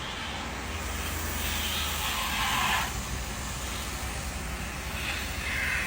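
Road traffic noise: a steady rush of passing vehicles, swelling louder about two seconds in and again near the end.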